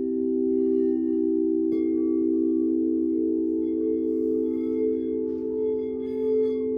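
Singing bowls ringing in several steady, overlapping tones, with a fresh strike a little under two seconds in that brings in higher overtones.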